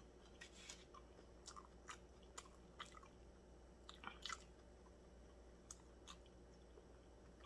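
Faint chewing of a steak and cheese sub sandwich close to the microphone: a string of soft, short mouth clicks, most in the first four seconds, with two more around six seconds in.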